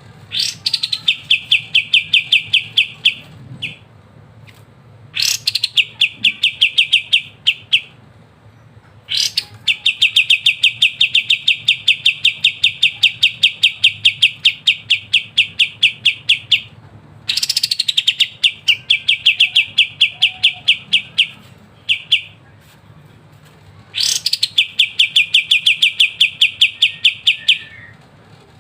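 Kapas tembak songbird singing in long rapid trills, called "ngebren": runs of fast, evenly repeated high notes, about nine a second, each run opened by a sharp downward-sweeping note and lasting from about three to seven seconds, with short pauses between runs.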